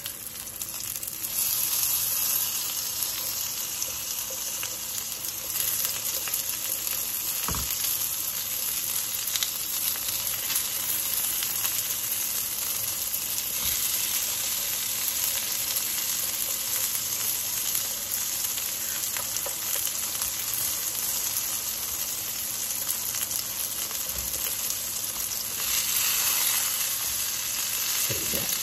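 Masala-coated baby eggplants shallow-frying in hot oil in a frying pan: a steady sizzle that grows louder about a second in and again near the end as pieces are turned over onto their uncooked side. A few light knocks are heard during the turning.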